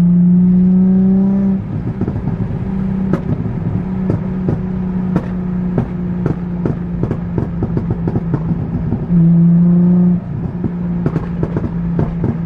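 Nissan 350Z's V6 engine revved and held steady, then let off into a long run of sharp exhaust pops and crackles from its pop-and-bang ("popcorn") tune. It is revved and held again about nine seconds in, followed by more crackling.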